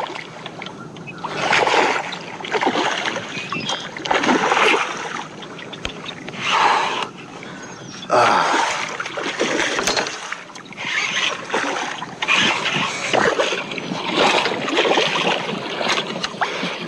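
A hooked redfish thrashing at the surface beside a kayak, in a run of splashes a second or two apart, as it is brought to the landing net.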